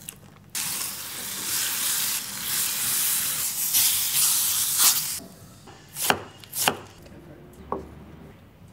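Shredded roast chicken in sauce sizzling in a frying pan as it is stirred with a wooden spoon, for about five seconds. Then two sharp knocks about half a second apart.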